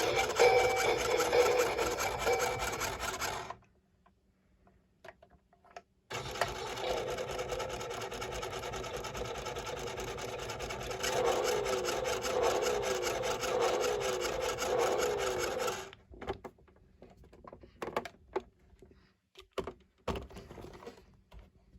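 Battery-powered toy truck's small electric motor and plastic gears whirring and rasping as it drives and dances. It stops a few seconds in, starts again about two seconds later and runs with a repeating wavering pattern, then cuts off near the end, leaving a few clicks.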